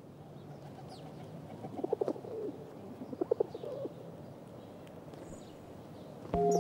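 Birds calling: low cooing calls, twice, with faint higher chirps over a soft background hum. Near the end a loud, steady ringing tone with several pitches sets in.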